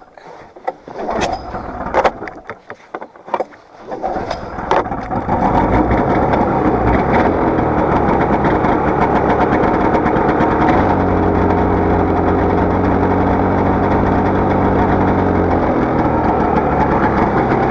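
Polaris 550 two-stroke snowmobile engine being restarted after stalling: a few sharp clicks and knocks, then it catches about four seconds in and runs steadily at idle.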